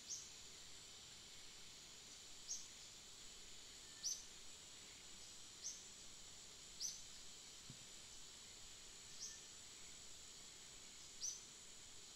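Quiet outdoor ambience: a steady high insect drone, with a bird's short, falling high chirp repeated about seven times, every one to two seconds.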